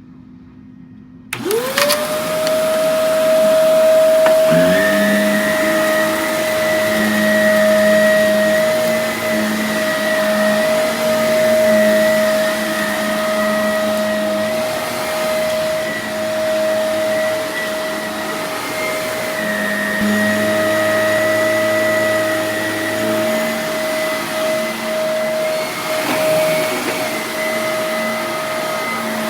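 Vacuum cleaner switched on about a second in, its motor whining up to speed and then running steadily. A few seconds later a second, lower hum joins it.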